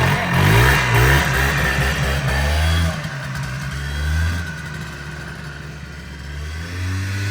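1995 Polaris Trail Boss 250's two-stroke single-cylinder engine revving as the ATV accelerates under way: the pitch climbs over the first couple of seconds, eases off about three seconds in, then surges briefly twice more.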